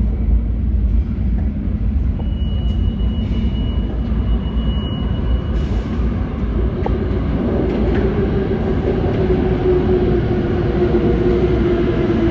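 New York City subway L train running through an underground station, a loud steady rumble. A thin high tone sounds briefly in the first half, and a lower steady whine comes in about halfway and holds.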